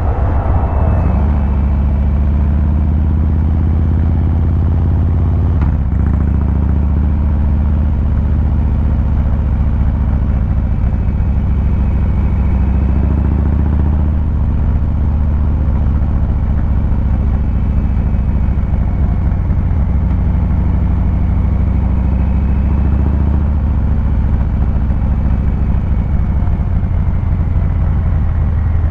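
2023 Harley-Davidson Fat Boy 114's Milwaukee-Eight 114 V-twin engine and exhaust running at low, steady revs, with a short click about six seconds in.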